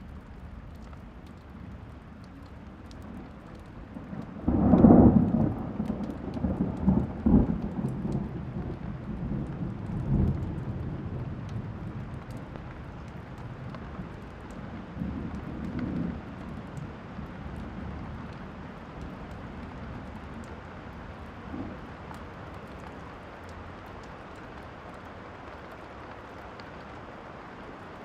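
Steady rain falling during a thunderstorm. About four seconds in a loud thunderclap breaks out and rolls on in several rumbles for about six seconds. A fainter rumble follows around the middle.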